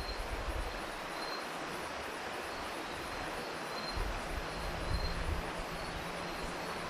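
Steady rushing of a flowing river under a night chorus of crickets: a short high chirp repeats about once a second over a faster, very high pulsing insect trill.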